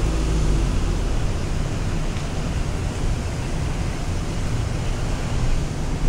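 Steady road and wind noise from a moving car, a low rumble with a hiss over it.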